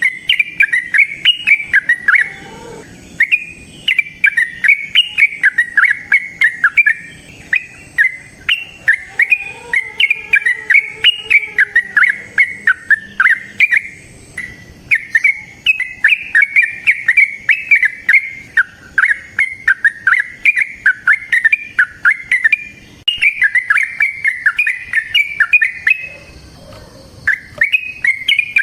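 Yellow-vented bulbul (trucukan) singing a long, rapid song of quick bubbling notes in extended phrases, with short pauses between them.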